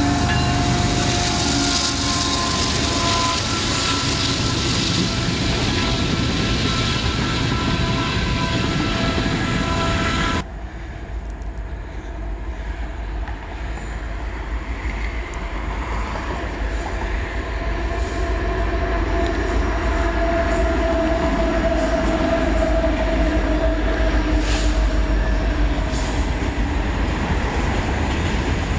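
Kansas City Southern diesel locomotives of a freight train passing at close range, a dense rumble with steady engine tones. About ten seconds in it cuts abruptly to a freight train rolling across a railway overpass overhead: its rumble builds louder, with a thin squealing tone and a few sharp wheel clicks near the end.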